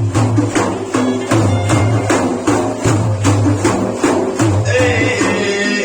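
Music from a Sufi praise-singing session: frame drums beat a fast, steady rhythm of about four strikes a second under a pitched melodic line.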